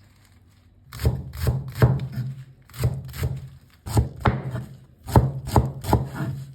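A knife chopping on a cutting board, in quick runs of two to four strokes with short pauses between them, starting about a second in.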